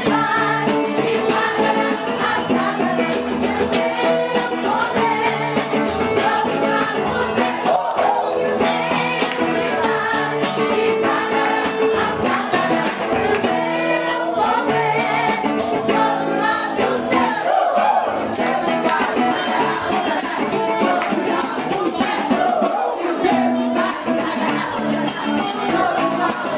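Worship song in Portuguese-language gospel style: voices singing over a band, with a shaken percussion jingle keeping time throughout.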